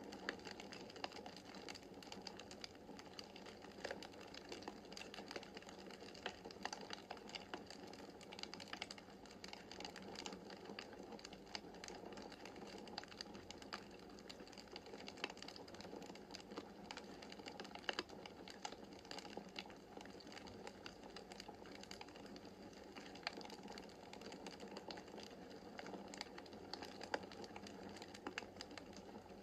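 Wood fire crackling in a fireplace: many irregular sharp snaps and pops over a soft steady rush of burning.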